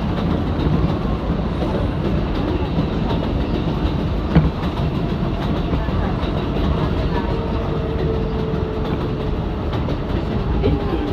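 Interior of an R188 New York subway car running along the track, a steady rumble with some wheel clatter and a sharp click about halfway. In the second half a steady whine comes in and drops a little in pitch near the end, as the train begins to slow.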